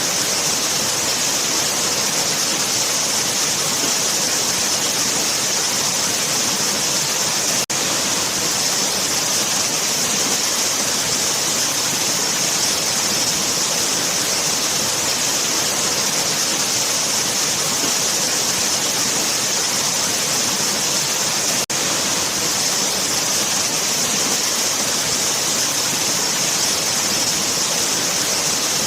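Waterfall: a steady, dense rush of falling water, with two momentary drop-outs, one about a quarter of the way through and one about three quarters through.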